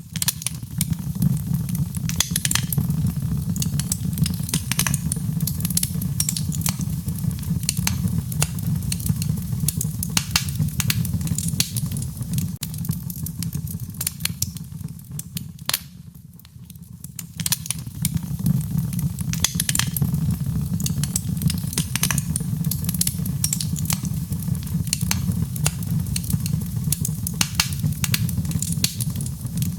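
Wood fire burning, with frequent sharp crackles and pops over a steady low rush of flame. The low rush eases for a few seconds about halfway through, then builds back up.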